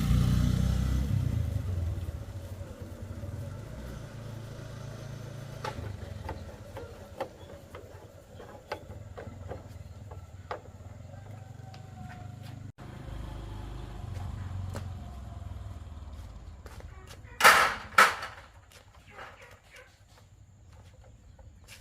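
A 110cc motorcycle engine running with a steady low rumble, loudest in the first few seconds. Two loud, sharp sounds come close together near the end.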